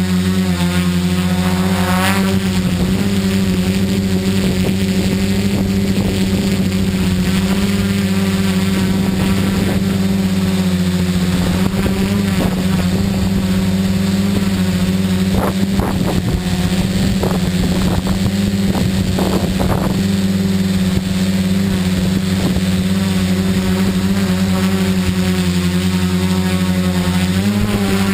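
Tricopter's electric motors and propellers humming steadily in flight, the pitch shifting slightly as the throttle changes, with rough gusts of wind on the microphone.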